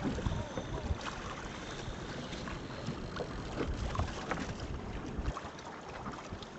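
Wind buffeting the microphone aboard a boat on open water: a gusty low rumble with scattered small knocks.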